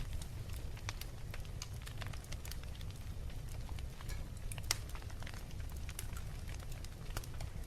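Wood fire crackling: irregular sharp pops and snaps over a steady low rumble of burning, with one louder pop a little past halfway.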